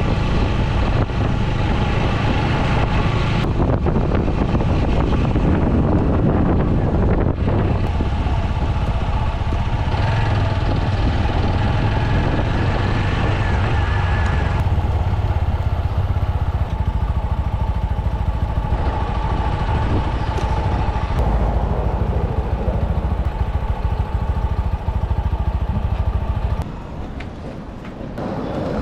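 TVS Apache 200 single-cylinder motorcycle engine running steadily while riding, with wind noise on the microphone. The sound drops quieter for a moment near the end.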